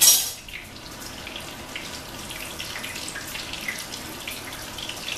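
Halibut pieces frying in hot oil in a pan: a steady sizzling hiss with small crackles, after a brief loud burst right at the start.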